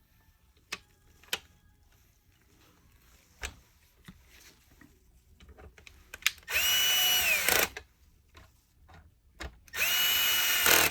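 Cordless electric screwdriver driving screws into the plastic housing of a vacuum power head in two runs of about a second each, its motor whine dropping in pitch as each run stops. A few sharp plastic clicks come before them.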